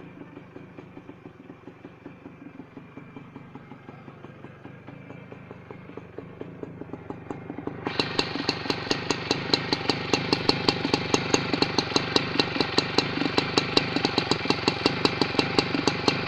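Small motorcycle engine running with an even putter of firing beats. About eight seconds in it gets suddenly much louder and sharper, at about five beats a second.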